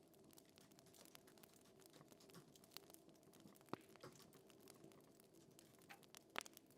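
Faint crackling fire: scattered small irregular crackles over a low steady hum, with two louder pops, one in the middle and one near the end.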